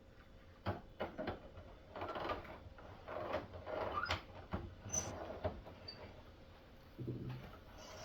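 HO scale Life-Like high-hood diesel model locomotive running on the layout track, with irregular clicks and rattles from its wheels and mechanism over the rails. The clicks die down for the last couple of seconds.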